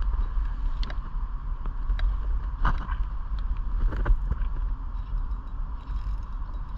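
Spinning fishing reel being cranked while fighting a hooked bass, with steady mechanical noise and scattered light clicks over a low rumble of wind on the microphone.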